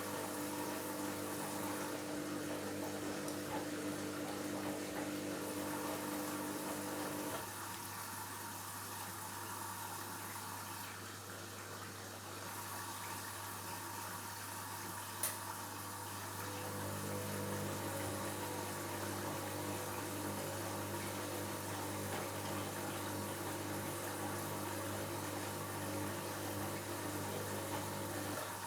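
Washing machine running mid-cycle with a steady hum and water noise. A pitched motor hum stops about a quarter of the way in and starts again a little past halfway, with a single click just before it restarts.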